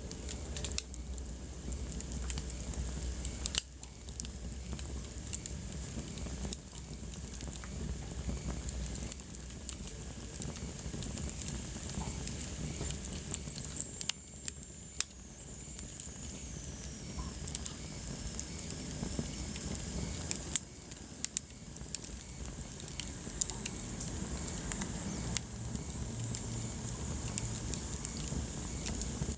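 Wood fire burning in a fireplace: a steady low rustle of flames with irregular sharp crackles and pops, and a faint high whistle sliding down in pitch about halfway through.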